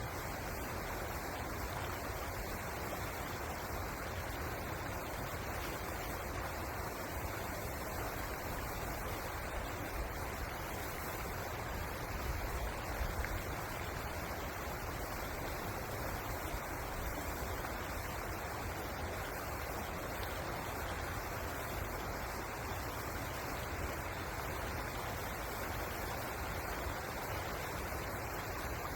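Steady rush of flowing water from the Pozer River, an even noise with no breaks.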